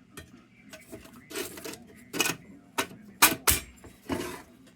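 Metal and glass parts of a Dietz No.1 Blizzard cold blast lantern being handled and fitted together: a run of sharp irregular clicks and clinks, with two short scraping rasps.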